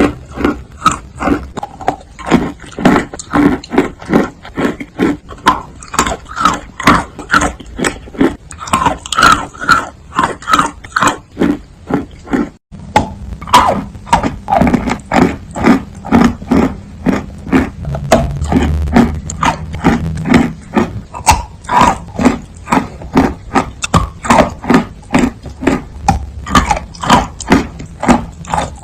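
Close-miked chewing of chalk: a steady run of wet crunching chews, about three a second, with a short break near the middle.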